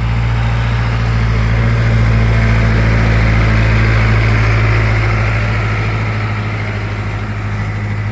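Mahindra 6025 60 hp diesel tractor engine running steadily as it drags a large log. It swells a little in the middle and eases off over the last couple of seconds.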